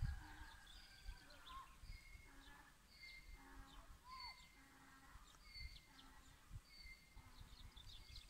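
Faint outdoor birdsong: a short call repeated about once a second, with a few other gliding calls, over a low background rumble.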